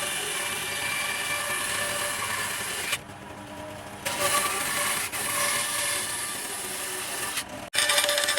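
A power tool running against wood: a steady motor whine over a grinding noise. It drops quieter for about a second around three seconds in and cuts out briefly near the end.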